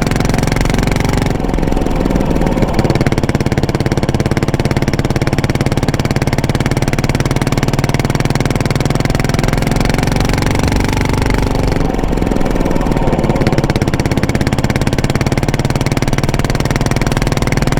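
Yamaha SR400's air-cooled single-cylinder engine running through an aftermarket muffler under way, a steady thumping exhaust note that eases off briefly twice, about a second in and again near twelve seconds.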